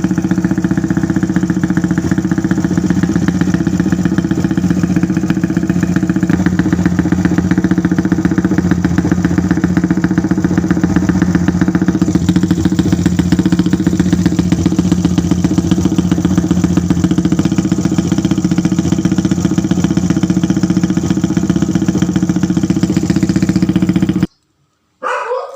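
Motorcycle engine idling steadily through an aftermarket exhaust fitted with a dB killer baffle, still noisy despite the insert. Its tone shifts slightly about halfway, and it cuts off suddenly near the end, followed by a brief short sound.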